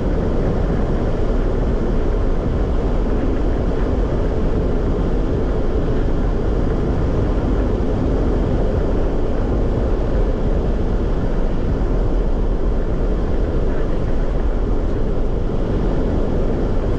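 A steady, loud low rumble of noise that does not change.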